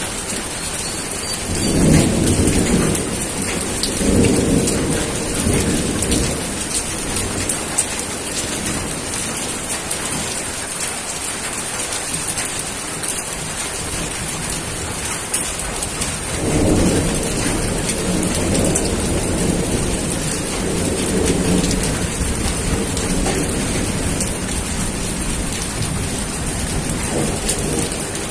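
Steady heavy rain with rolling thunder: a long low rumble about two seconds in, another about sixteen seconds in, and a shorter one near the end.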